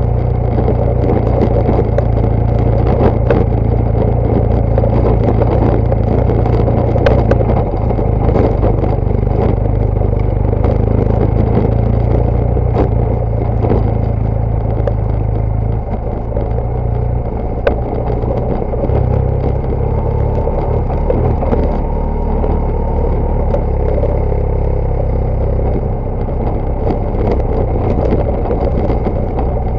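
BMW GS Adventure motorcycle running under way off road: a steady low engine drone whose note shifts several times, with frequent short clicks and clatter over a rushing noise.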